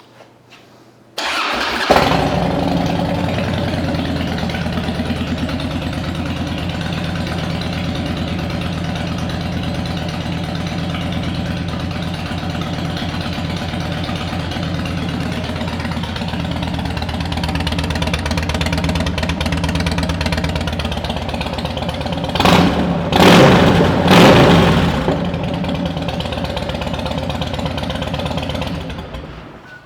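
2007 Harley-Davidson Dyna Wide Glide's V-twin with Vance & Hines twin pipes starting about a second in and settling into a steady idle. Near the end of its run it is blipped twice with the throttle, then it is shut off.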